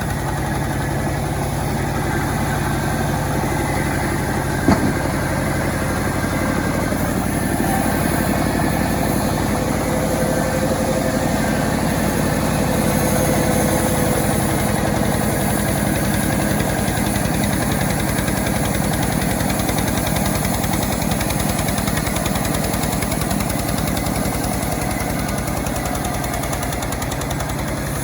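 Homemade chainsaw engine running steadily, with one sharp knock about five seconds in.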